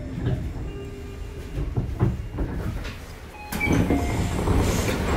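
Tobu 30000 series commuter train at the end of its run: a low rumble with a few clunks, then about three and a half seconds in a sudden louder rush of sound as the doors slide open.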